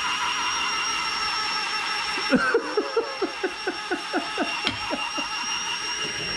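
Handheld electric dishwasher's small motor running with a steady high whine while it spins a plate against its brush. From about two seconds in, a quick rhythmic knocking of about five a second runs for some three seconds over the whine.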